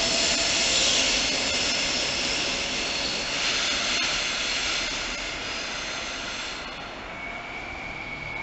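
DB Intercity 2 double-deck train moving away along the platform, a loud rushing hiss of wheels and running gear that slowly fades. About seven seconds in the hiss drops away, leaving a thin, steady high whistle.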